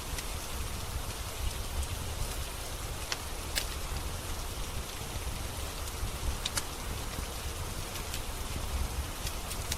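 Steady rain hiss over a low rumble, with sharp crackles from a wood fire in a fireplace scattered through it.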